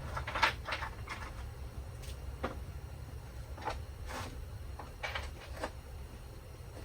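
Scattered light clicks and knocks, about a dozen spread unevenly, of hand tools and engine parts being handled, over a low steady hum.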